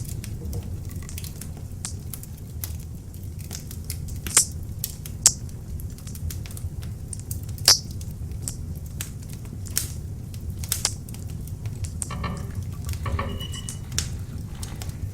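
Beech log fire burning in an open fireplace: a steady low rumble of flames with scattered sharp crackles and pops, three of them louder, about four, five and eight seconds in. A brief hiss with a thin whistling tone comes about twelve to fourteen seconds in.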